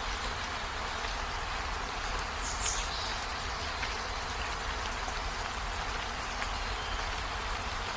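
Steady rushing of a waterfall's falling water, with a short high chirp about two and a half seconds in.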